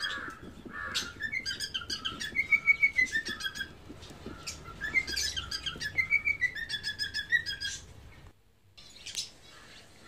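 Small caged birds chirping and whistling: quick runs of short chirps mixed with smooth whistled notes that rise and fall, dropping away briefly near the end.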